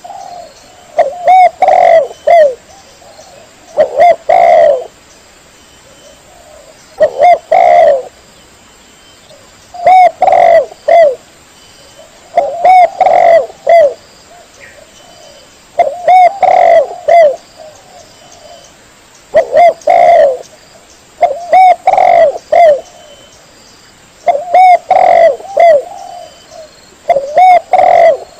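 Spotted dove (tekukur) cooing, a recorded master call: a short phrase of several coos repeated about every three seconds, with quiet gaps between.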